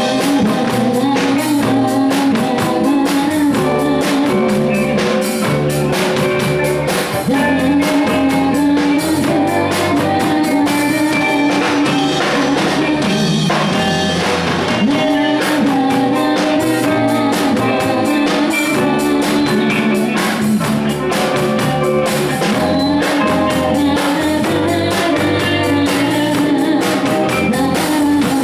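Live band playing a song, with a steady drum-kit beat, guitar and a held melody line.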